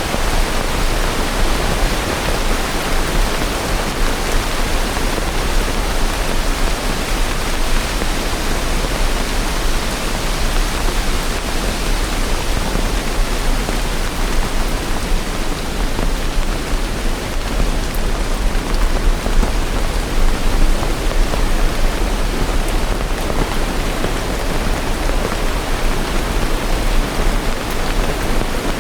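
Steady heavy rain, an even hiss of countless drops with a low rumble underneath and no distinct individual drops or thunder.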